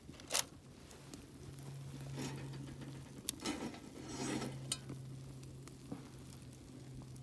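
Cooking gear being handled: a few sharp clicks and short scraping sounds over a steady low hum.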